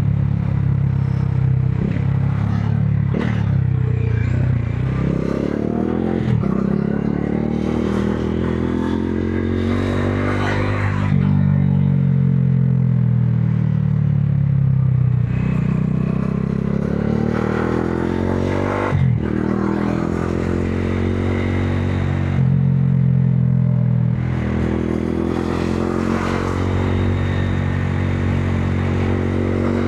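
Modenas Dominar 400's single-cylinder engine under way, its revs climbing and dropping back several times as it pulls through the gears. A few sharp ticks come at some of the changes in pitch.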